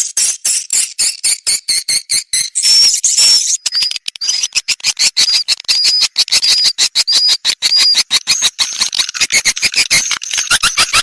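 Recorded edible-nest swiftlet calls: a fast, continuous chattering of clicks with short high chirps repeating about twice a second through the middle. This is a swiftlet lure sound, played to draw swiftlets into a nesting house.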